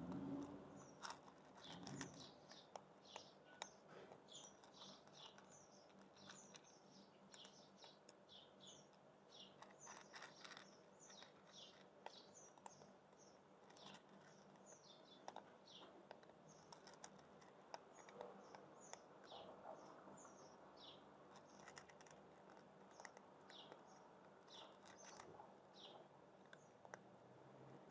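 Faint, busy chirping of small birds: many short, high chirps, several a second, all through. Scattered soft clicks come from a cat crunching dry kibble.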